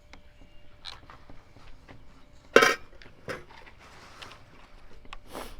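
Small metal clinks and knocks from screws and hand tools being handled while a chainsaw is taken apart, with one louder clink about two and a half seconds in.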